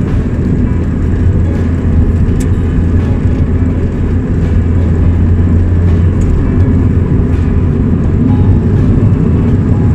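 Steady low rumble of a Proton Putra being driven, its engine and road noise heard from inside the cabin.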